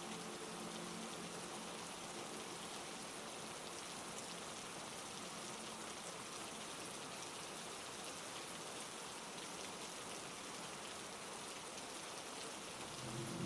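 Steady heavy rain, an even hiss with no single drops standing out. A loud, low, humming tone swells in right at the very end.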